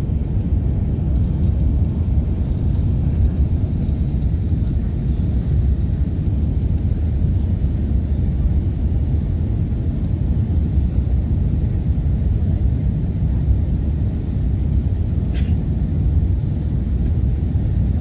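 Jet engines of a four-engine Airbus A380 airliner at takeoff power: a steady, deep rumble.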